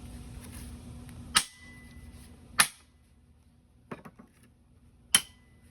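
Sharp metal-on-metal strikes on steel workpieces: three hard knocks a second or more apart, each leaving a faint ring, with a few lighter clicks between the second and third.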